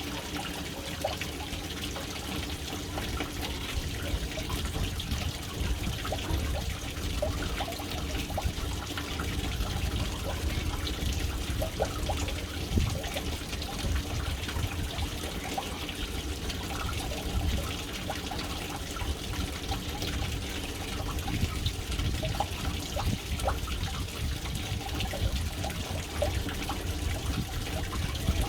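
Water falling into a household water tank: a steady stream splashing and trickling into the water below, with a deep continuous rumble under many small splashes.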